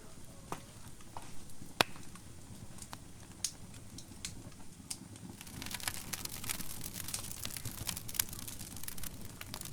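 Wood fire crackling in a fireplace: irregular sharp pops and snaps over the low rumble of the flames, with one loud snap a little under two seconds in. The crackling grows denser and hissier about halfway through.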